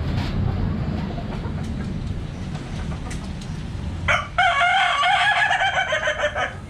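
A rooster crows once: one loud, pitched call of about two and a half seconds starting about four seconds in and cutting off abruptly near the end. Before it there is only a steady low rumble of background noise.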